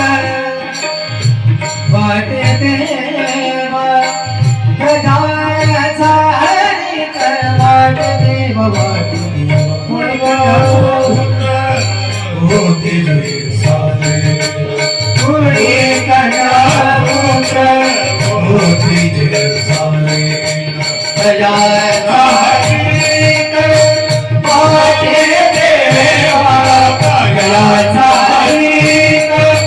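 Marathi Warkari bhajan music: tabla playing a steady rhythm under devotional singing and sustained melody notes.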